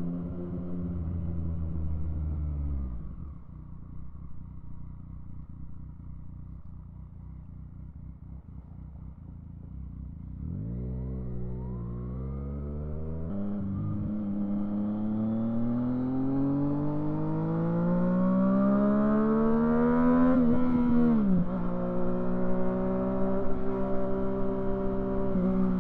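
Yamaha FZ-09's 847 cc inline-three engine: the revs drop and it runs low and quieter for several seconds, then the pitch climbs steadily with a brief dip about halfway. Near the end the revs fall sharply once more and the engine settles into a steady, higher run.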